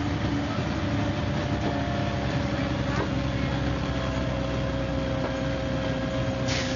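MCW Metrobus double-decker bus engine running steadily, with a low drone and a steady whine. A short hiss comes near the end.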